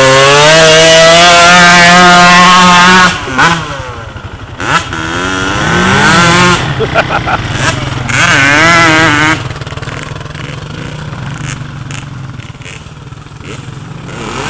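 Kawasaki KX125 two-stroke dirt bike engine revving hard, held at high revs for about three seconds as the bike throws a rooster tail. Two shorter throttle bursts follow, then a lower, quieter steady run near the end.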